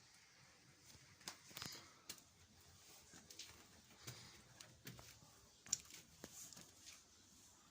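Near silence, broken by faint, irregular ticks and taps, with one sharper tick near the end.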